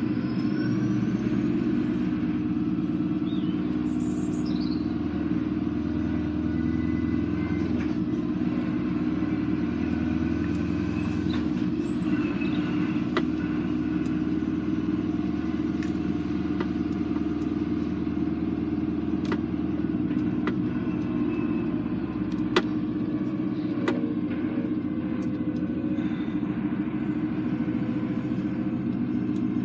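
Heavy goods lorry's diesel engine running steadily under way, a constant low drone with a few faint clicks and rattles.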